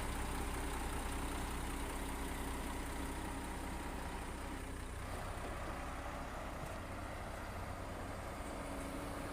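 Heavy construction machine's diesel engine running steadily, with a slight change in pitch about halfway through.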